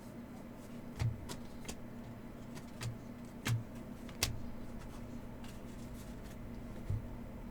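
Trading cards and packs being handled on a table: a handful of scattered light taps and clicks, some with a soft thud, over a steady low hum.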